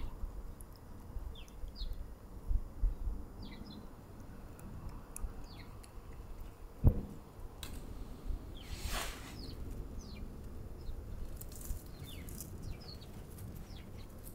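Small birds chirping in short, scattered calls over a low wind rumble, with a single knock about seven seconds in and a brief rushing burst shortly after.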